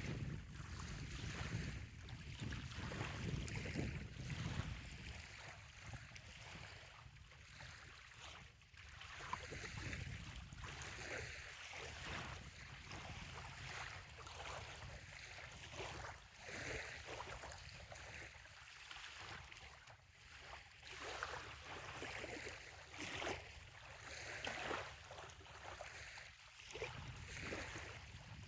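Small waves lapping gently at a sandy bay shoreline, with many soft, irregular splashes and trickles. A low rumble of wind on the microphone runs underneath, strongest in the first few seconds.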